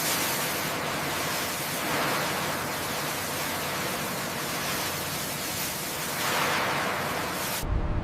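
A steady, dense rushing hiss that swells twice and cuts off suddenly near the end.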